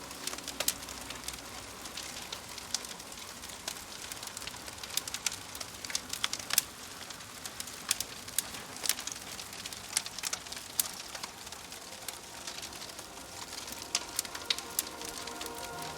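Wood fire crackling, with irregular sharp snaps and pops, over the steady hiss of rain pattering on a surface. Soft sustained music tones come back in near the end.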